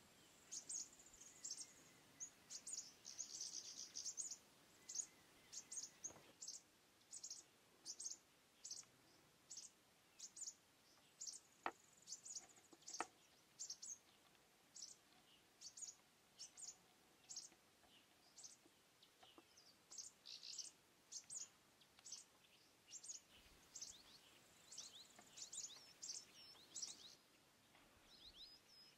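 Faint, high-pitched bird chirps repeating throughout, about one or two a second. Two sharp clicks sound near the middle.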